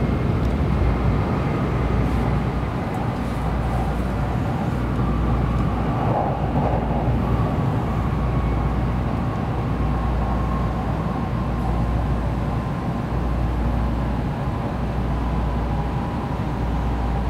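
Cabin noise inside a Kyushu Shinkansen car as the train slows into a station: a steady low rumble with a faint whine that falls slightly in pitch.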